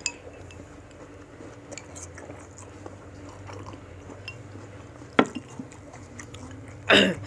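Eating sounds: chewing fresh fruit and dipping the pieces through thick peanut-chili rujak sauce in a stone mortar, with scattered small clicks. One sharp click comes about five seconds in, and a short loud burst near the end.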